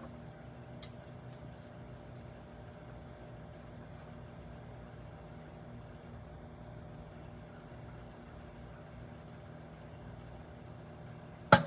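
Microwave oven running with a steady hum while electronics inside it cook, with a faint click about a second in. Near the end comes one loud sharp crack, which the owner takes for a capacitor in the toy's circuitry bursting.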